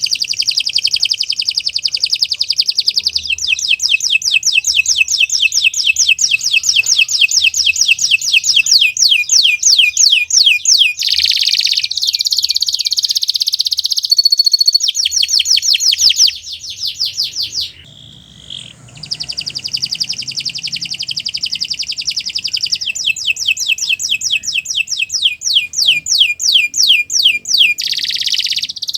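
Domestic canary singing a long, continuous song of fast trills and rolls, with a short break partway through before it goes on.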